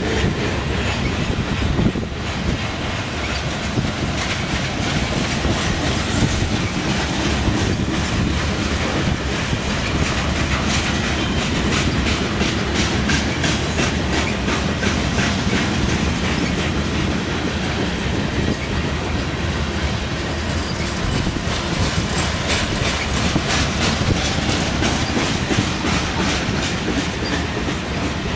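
Covered hopper cars of a long freight grain train rolling past close by. The wheels make a steady rumble on the rails, with a regular clickety-clack as they cross rail joints.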